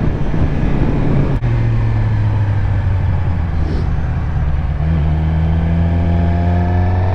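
Suzuki GSX-R600's inline-four engine running steadily under way. There is a brief break in the note about a second and a half in, after which the engine sits at a lower pitch.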